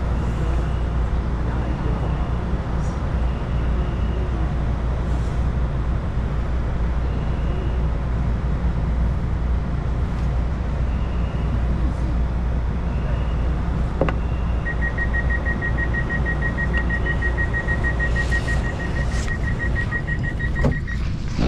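Steady low rumble inside a crowded commuter train carriage. About two-thirds of the way through, a rapid high electronic beeping starts and runs for about six seconds, and a sharp knock or two comes near the end.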